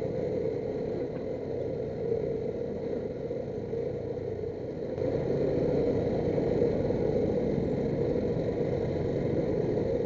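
Motorcycle running in slow, heavy traffic, its engine noise blended with the steady drone of surrounding vehicles. It gets louder about halfway through.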